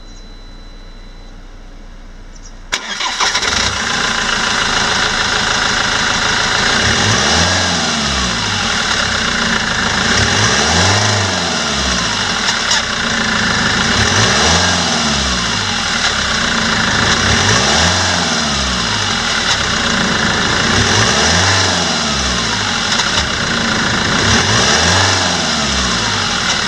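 Land Rover Defender TD4 four-cylinder turbodiesel starting up about three seconds in, then idling steadily, its sound swelling and easing about every three and a half seconds.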